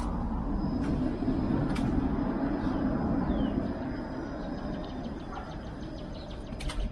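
A road vehicle passing, its rumble swelling to its loudest two to three seconds in and then fading, with a few sharp clicks.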